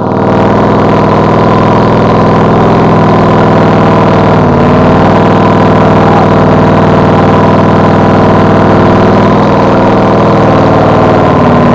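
Chevy 454 big-block V8 engine of an off-road truck running steadily and loudly, its pitch stepping to a slightly different note about four and a half seconds in.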